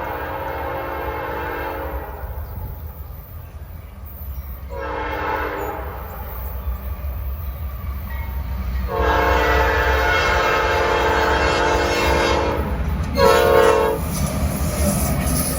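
Norfolk Southern freight locomotive's Nathan Airchime P5 air horn sounding its chord in four blasts: the end of a long blast, a short one about five seconds in, a long one of nearly four seconds, then a short, loud one near the end. Under it the train's low rumble.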